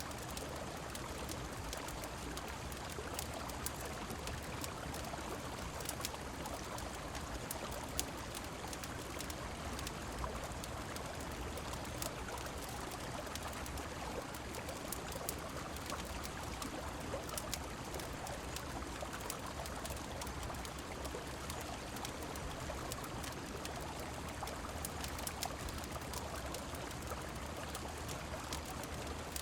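River water flowing in a steady rush with rain falling, sprinkled with scattered sharp little ticks and pops.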